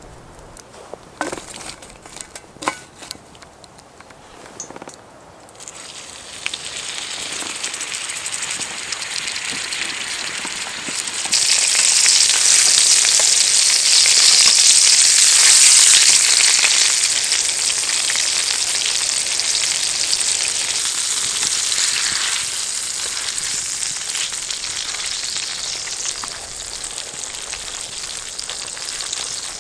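A few knocks and clicks, then food frying in a hot pan. The sizzle starts about six seconds in, jumps louder about five seconds later, and slowly eases off.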